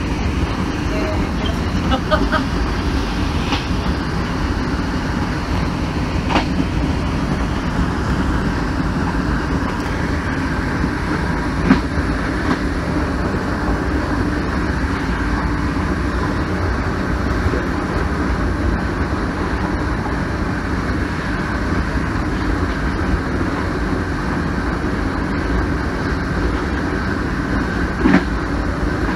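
Train running steadily at speed along the track, heard from the front cab: a continuous rumble with a faint steady tone. A few sharp knocks come now and then, the clearest just before the end.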